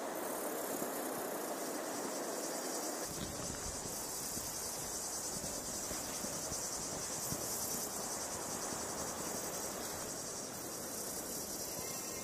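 Steady high-pitched insect chorus over a low, even background hiss of open-field ambience; the lower part of the hiss grows fuller about three seconds in.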